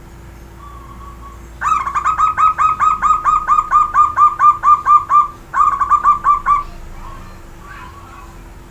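Zebra dove (perkutut) singing: a loud, rapid run of about five cooing notes a second, starting about a second and a half in, then after a brief break a shorter run of notes.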